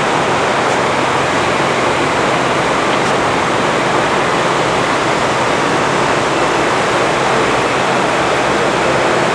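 Forrest Model 236 bandsaw running with its scallop-edge blade, a steady rushing noise with a faint low hum underneath and no change in level.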